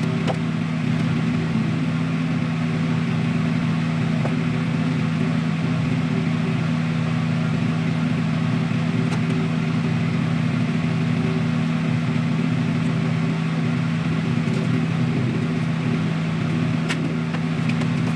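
A motor running steadily with an even, low hum.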